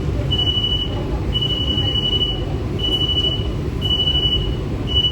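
High-pitched electronic beep repeating about once a second, some beeps longer than others, over the steady rumble of an air-conditioned suburban electric train running.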